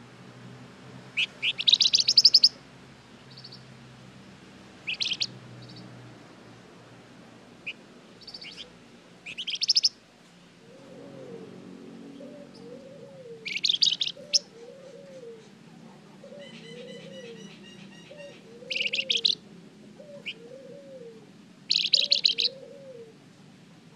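A Flamboyan songbird singing in short, loud, rapid high trills, about six bursts with short calls between them. A softer, low arched call repeats steadily in the background from about halfway through.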